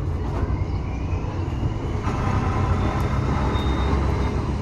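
Railway passenger carriage running along the track: a steady low rumble, with faint high-pitched whining tones joining about halfway through.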